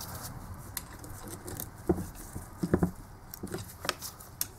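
Small clicks, taps and scrapes of a thin screwdriver levering the rectifier up off a Denso alternator, with a few sharper taps in the second half.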